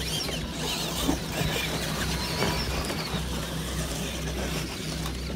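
Radio-controlled trucks running in a race heat, their electric motors whining and gliding up and down in pitch over a steady low hum.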